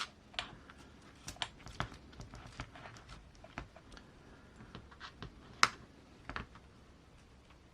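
Irregular light clicks and taps of a small screwdriver, screws and metal parts being handled while mounting an axle to a mini RC crawler chassis, with one sharper click a little past halfway.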